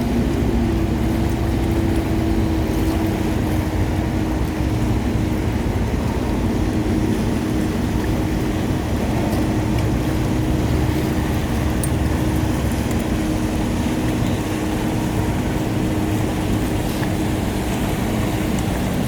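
An engine running steadily: a low rumble with a steady hum in it, the hum shifting up slightly in pitch near the start.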